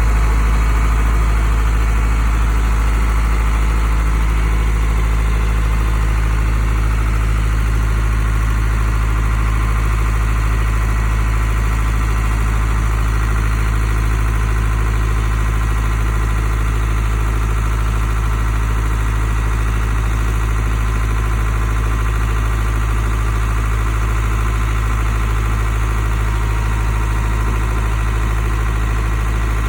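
Isuzu dump truck's diesel engine idling with a steady low hum that holds unchanged throughout.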